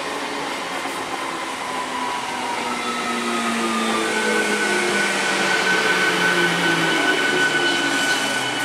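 Electric multiple-unit (EMU) local train running past close by: a steady rumble of coaches on the track, with the motors whining in several tones that slide slowly lower. A steady high tone comes in about halfway through.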